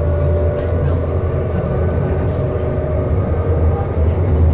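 Passenger train running, heard from inside the car: a steady low rumble with a steady high whine over it.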